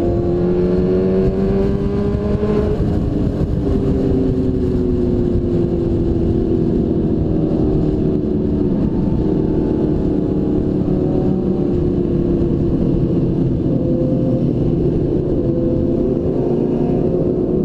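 2002 Suzuki GSX-R1000's inline-four engine running under way, rising in pitch over the first couple of seconds, then easing down slowly and holding fairly steady, over a constant low rush of wind noise.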